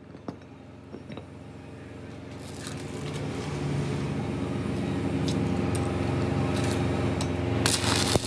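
Workshop machinery running with a steady hum that builds steadily louder, with a few sharp clicks at the start and a scraping, hissing noise that grows in and jumps louder near the end.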